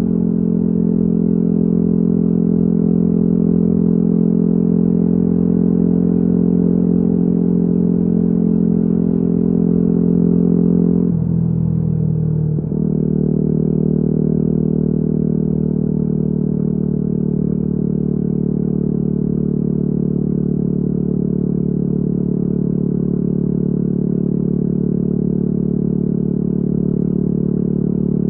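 Yamaha WR250R's single-cylinder four-stroke engine through an FMF Q4 exhaust, running at a steady cruise. About eleven seconds in, the note breaks briefly and settles again at a slightly different pitch.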